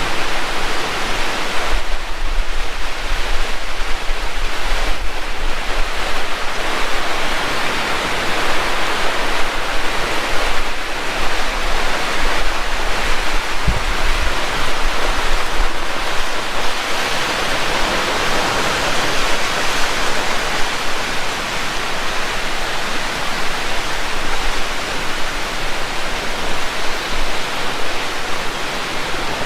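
Heavy rain pouring down in a steady, dense hiss, with a deep rumble of wind on the microphone through the first half.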